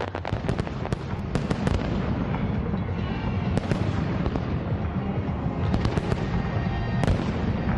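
Fireworks going off: a quick run of sharp crackling pops in the first couple of seconds, then scattered bangs and cracks over a continuous low rumble of distant explosions.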